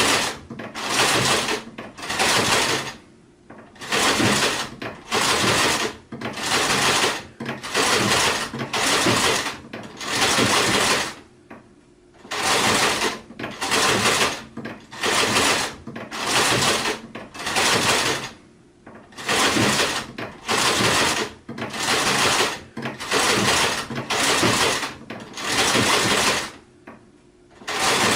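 Sewing machine stitching in short runs of about a second each, stopping and restarting over and over, with a few longer pauses between runs.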